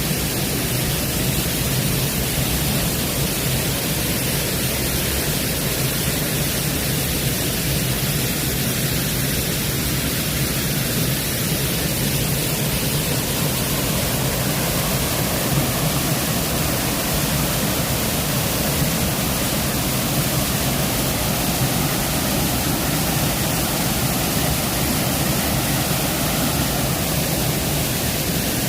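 Waterfall rushing steadily, a loud, even hiss of falling water with no breaks.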